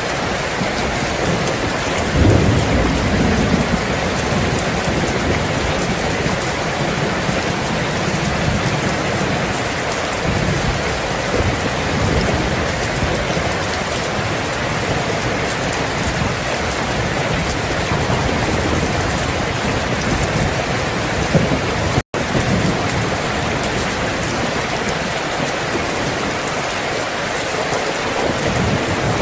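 Steady heavy rain falling, with low thunder rumbling under it, the loudest rumble swelling about two seconds in. For an instant about two-thirds of the way through, the sound cuts out completely.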